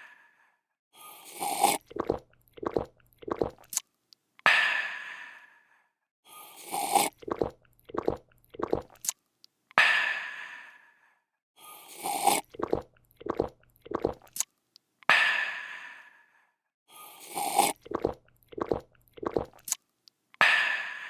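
A person drinking in a repeating cycle: a short slurp, about four quick gulps, then a long, breathy refreshed 'aah' that fades out. The cycle comes round about every five seconds, four times over.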